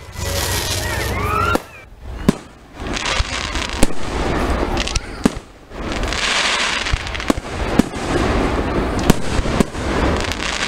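Fireworks display close by: many sharp bangs of shells bursting overhead, with crackling between them and a short rising whistle about a second in.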